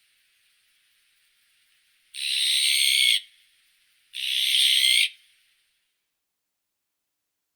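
Azure-winged magpie giving two harsh, rasping calls, each about a second long, two seconds apart.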